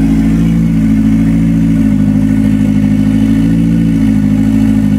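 Car engine running on E85 fuel, idling steadily while it warms up after a cold start.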